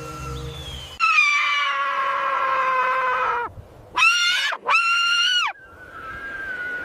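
An animal's loud, high-pitched calls: one long call of about two and a half seconds that falls slightly in pitch, then two shorter calls in quick succession. A fainter steady tone follows near the end.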